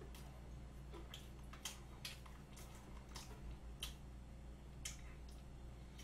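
Faint wet clicks and smacks of a mouth chewing soft chocolate cream cake, coming irregularly about two a second, over a steady low hum.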